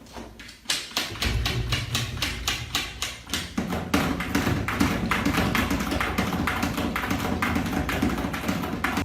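A quick, even series of taps, about four a second, over a low rumble.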